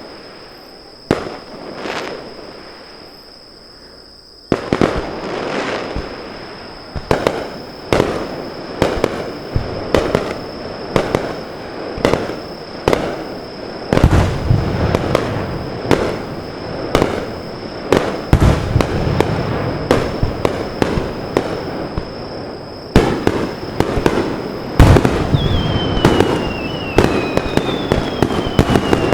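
Aerial fireworks bursting: a few separate booms at first, then from about four seconds in a rapid, unbroken barrage of bangs and crackling that grows denser toward the end. A few high falling whistles sound near the end.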